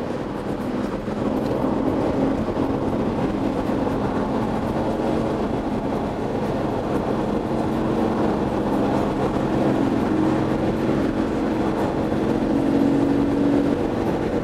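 Lamborghini Murciélago V12 with a Kreissieg aftermarket exhaust, running under way with a steady drone. Its pitch creeps slowly upward and falls away near the end.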